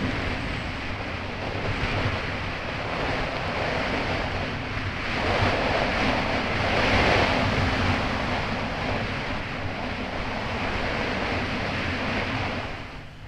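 Kawasaki Ultra 300X jet ski running across choppy water: its engine hum sits under the rush of water spray and wind buffeting the microphone. The rush grows loudest about halfway through, then the level drops sharply near the end.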